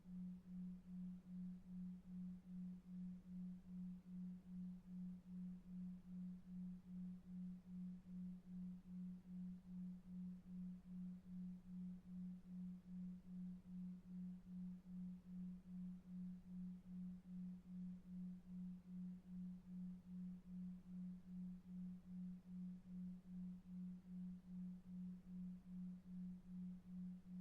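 A low pure tone that pulses about two and a half times a second: a 2.5 Hz 'delta wave' beat for sleep. It sits over a faint brown-noise rumble.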